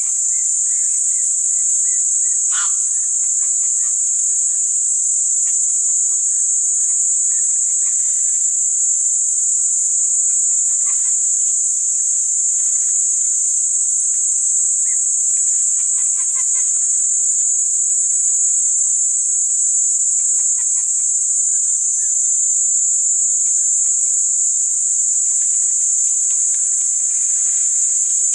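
Steady high-pitched insect chorus, with scattered short bird calls over it.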